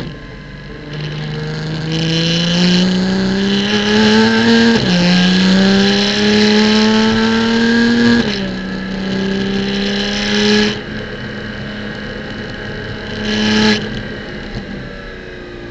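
Porsche Cayman GT4 Clubsport flat-six engine heard from inside the car on track. It accelerates with rising pitch, makes a quick upshift about a third of the way in and pulls hard again. It lifts off past the middle, runs on part throttle, and gives a short throttle blip, typical of a downshift, near the end.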